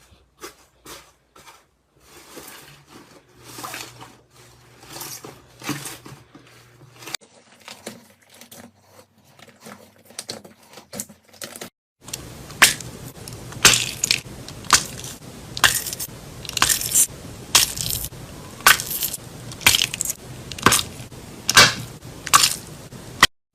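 Slime being squeezed and pressed by hand, giving irregular sharp pops and crackles over a soft sticky rustle. About halfway through it gets louder, with about two pops a second.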